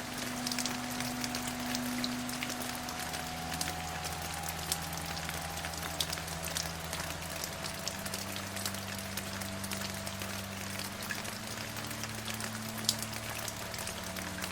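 Steady rain: a continuous hiss with many sharp single drops ticking through it. Underneath is a soft low drone of held tones that shift pitch every few seconds.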